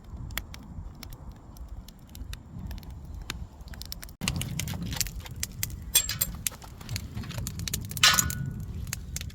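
Glass clinking and small wooden clicks and knocks as a thin pane of old cabinet glass is worked loose from its frame. A denser run of sharp glassy clinks comes near the end.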